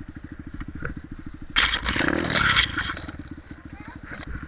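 Dirt bike engine idling with a fast, even low putter; about a second and a half in, a loud scraping clatter lasts about a second.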